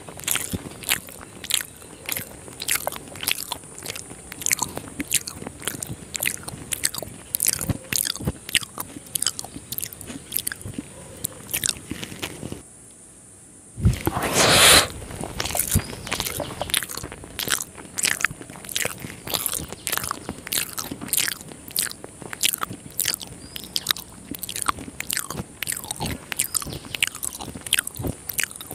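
Close-miked eating sounds of rice mixed with egg curry: steady chewing with many short wet smacks and clicks of the mouth. A short gap a little before halfway is followed by a louder burst.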